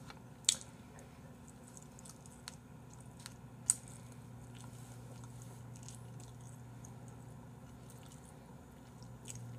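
Quiet eating: chewing and squishy mouth sounds, with a few sharp clicks of chopsticks, the loudest about half a second in and near four seconds in, over a low steady hum.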